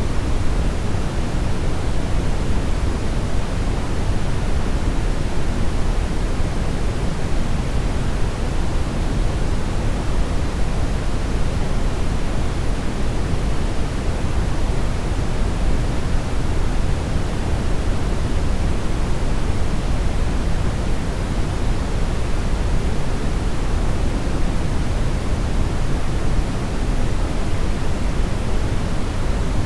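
Steady synthetic brown noise: an even, unchanging rumbling hiss weighted heavily toward the low end, with no events or rhythm.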